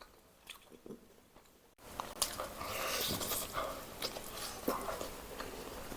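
Close-up eating sounds: biting and chewing whole roast chicken, with many short wet clicks and smacks. They start about two seconds in, after a quiet moment.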